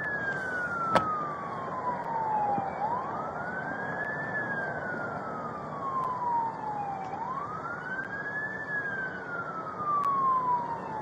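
Emergency vehicle siren in a wail pattern: each cycle rises quickly in pitch, then falls slowly, repeating about every four and a half seconds. A single sharp click sounds about a second in.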